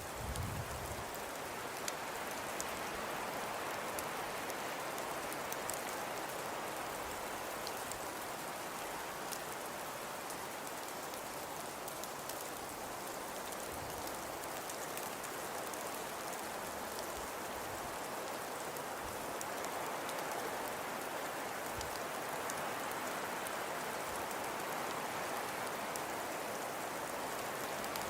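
Snowfall ambience: a steady, even hiss of falling precipitation with scattered fine pattering ticks, much like rain on a surface. A brief low thump sounds right at the start.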